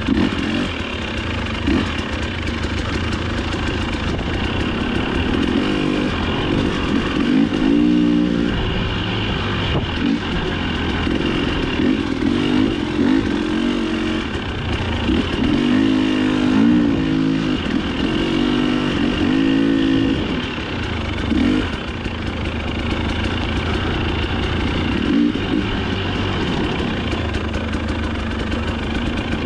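Dirt bike engine revving up and down repeatedly as the rider works the throttle over rough off-road trail.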